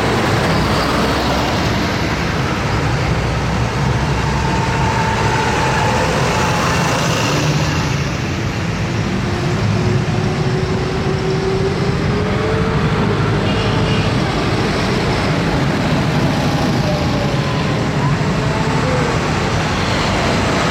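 Tractor engines running steadily as a line of tractors drives by.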